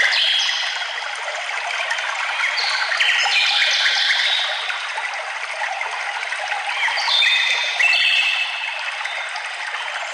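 Steady rushing trickle of a forest stream, with songbirds singing over it: three phrases of stepped, descending high notes, each lasting a second or two.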